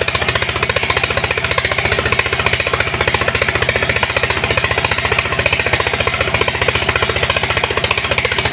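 Engine of a sand suction pump running steadily under load, with a fast, even chugging pulse of about a dozen beats a second.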